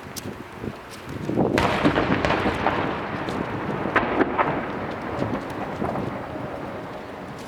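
Rapid-fire aerial fireworks barrage: overlapping booms and sharp cracks of shells bursting, merging into a continuous rumble that swells about a second and a half in.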